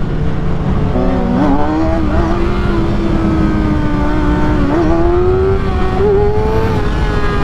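600-class inline-four sportbike engine running at high revs under way, with wind rush over it. Its high engine note climbs about a second in, holds, then dips briefly and climbs again.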